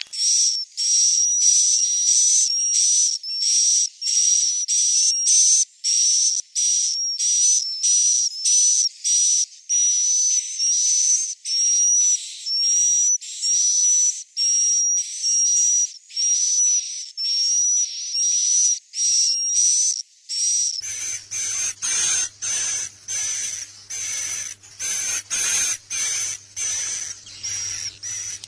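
Recorded swiftlet calls played as a roosting lure: a steady train of short, high, buzzy chirps, about two a second. About two-thirds of the way in, the calls come shorter and closer together over a low hum.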